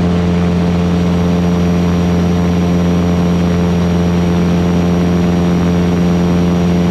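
Van's RV-8's piston engine and propeller droning steadily in the climb, heard from inside the cockpit, with power set back to 24 inches of manifold pressure.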